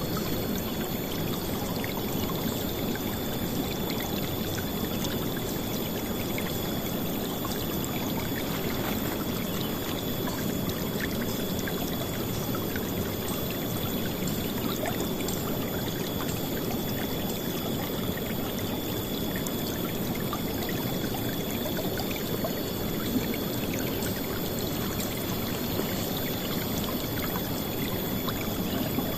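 River water flowing and splashing steadily, a dense, even rushing sound with no breaks, with a faint steady high whine above it.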